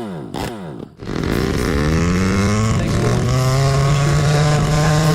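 Homemade mini motorcycle's small engine: a few short falling sweeps in the first second, then after a brief break it revs up and holds a steady high speed.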